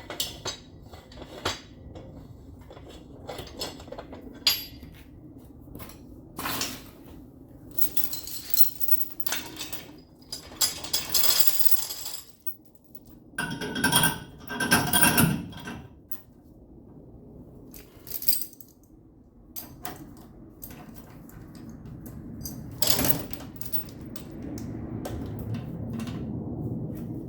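Irregular metal clinks and clatter of steel tools and parts being handled, with louder noisy spells about ten and fourteen seconds in.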